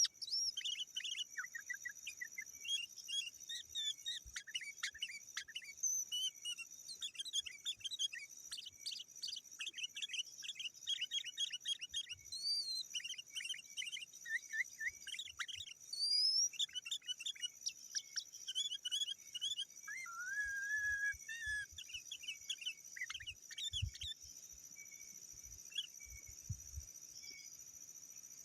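Sooty-headed bulbul (kutilang) singing: rapid, busy runs of short whistled chirps that thin out to a few faint calls about 24 seconds in. A steady high-pitched tone runs underneath.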